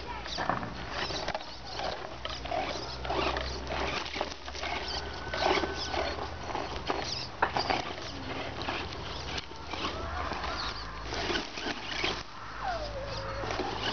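HSP 1/10 RC monster truck driving over rough dirt ground: a dense, irregular clatter and crunching from its tyres and chassis, with a few brief squeaks.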